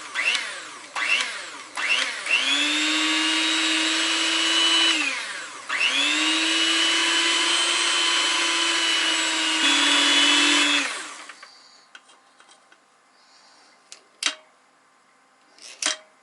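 Electric kitchen mixer's beaters blending dry ingredients into peanut butter cookie dough. After a few short pulses, the motor spins up and runs steadily with a whine for about three seconds, stops briefly, then runs again for about five seconds, its pitch dropping slightly before it winds down. Two sharp knocks come near the end.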